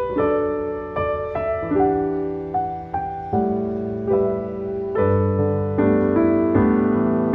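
Background piano music: gentle chords and melody notes, each struck sharply and left to fade.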